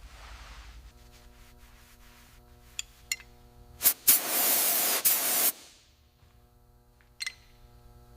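A hissing spray of air or paint, starting suddenly after a click and lasting about a second and a half. A few sharp clicks come before and after it, over a steady electrical hum.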